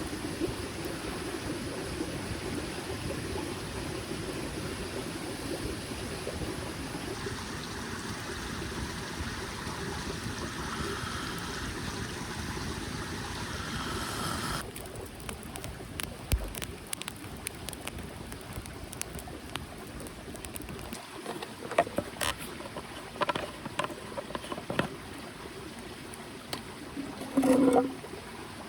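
Small mountain stream flowing steadily. About halfway through, the sound changes abruptly to a quieter background with scattered clicks and knocks, and a short louder sound with a pitch near the end.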